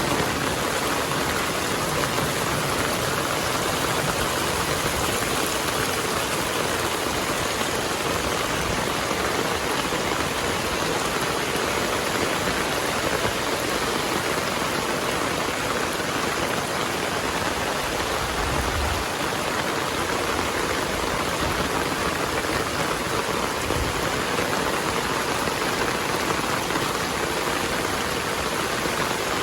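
Heavy rain falling, a steady, even hiss with no letup, with two brief low rumbles about two-thirds of the way through.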